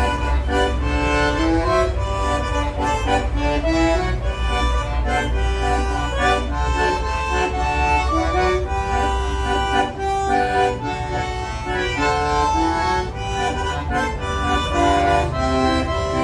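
Bandoneon playing a melody of held, overlapping reed notes, with no break.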